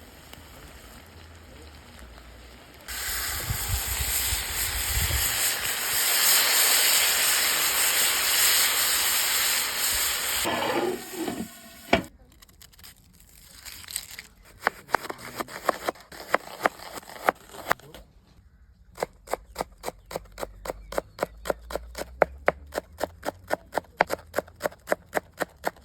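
Food sizzling loudly in hot fat in a pot over a campfire, starting suddenly a few seconds in and dying away after about seven seconds. Later, runs of quick, even taps, about four a second.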